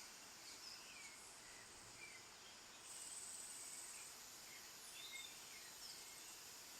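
Faint wild birds calling, with short scattered chirps and quick up-and-down whistles over a soft background hiss. A steady high buzz comes in about three seconds in and lasts about a second.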